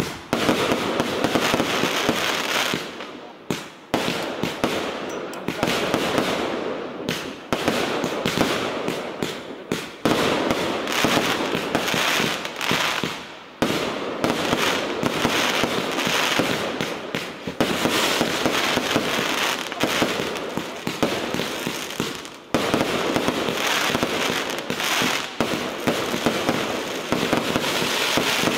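Fireworks compound batteries firing a dense, rapid run of shots and aerial bursts, with a few brief lulls as one sequence ends and the next starts.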